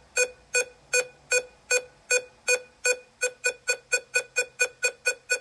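Clock-tick sound effect: short, pitched electronic ticks at an even pace that speeds up after about three seconds, over a faint low hum.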